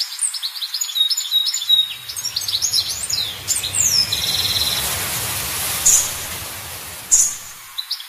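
Birds chirping: many quick, high chirps and short downward-sliding calls in the first half, thinning out after about four seconds, with two sharp single calls near the end. A steady rushing noise runs underneath from about two seconds in.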